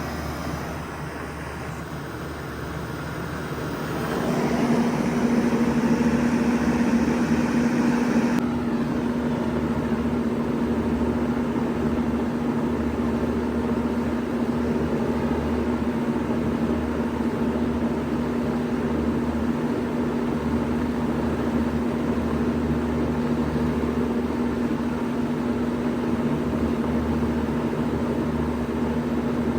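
1993 Bard 2.5-ton wall-hung heat pump running in cooling mode, a steady mechanical hum with fan noise. About four seconds in it grows louder as a strong steady hum comes in, and a hiss above it drops away a few seconds later, leaving an even running sound.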